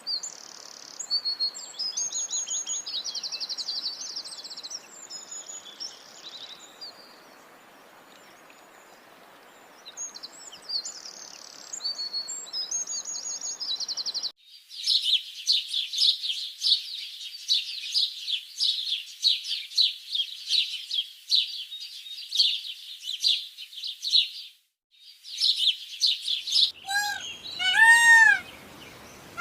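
Small birds singing and chirping, with fast trills, over a steady background hiss. About halfway through it cuts abruptly to a dense chorus of many birds chirping at once, and near the end a few short rising-and-falling cries come in.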